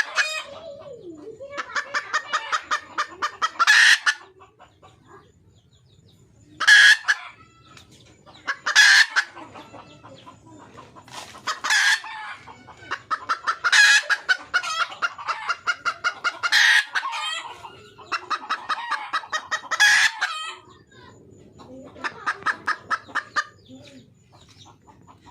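Red junglefowl hen cackling, the call used to draw in a male: runs of quick even clucks, several a second, broken again and again by a loud, sharp squawk.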